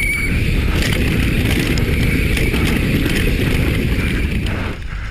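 Wind rushing over the microphone and a downhill mountain bike rattling over rough trail at speed, easing briefly near the end.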